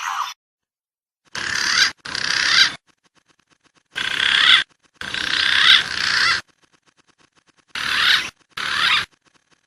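Looped bird-lure recording of wild pigeon and dove calls, whistled and warbling, coming in three pairs of short bursts that each start and cut off abruptly, with silence between the pairs.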